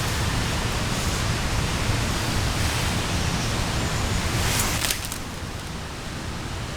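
Steady rushing outdoor noise with a low rumble, easing off slightly about five seconds in.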